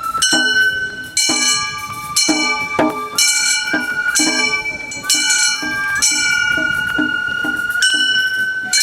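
Gion-bayashi festival music: a high Japanese transverse flute holds long notes that step between pitches, over repeated strikes of small bronze hand gongs (kane) ringing several times a second.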